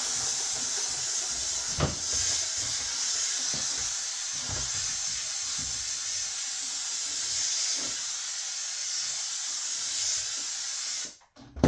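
Steam cleaner jet hissing steadily as it is run along the top ridge of a plastic (PVC) beehive box, lifting wax and propolis. It cuts off near the end, and there is a sharp knock about two seconds in.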